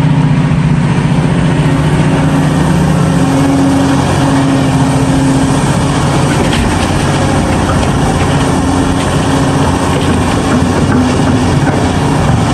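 Heavy diesel engine of earthmoving machinery running steadily, with a deep, even engine tone.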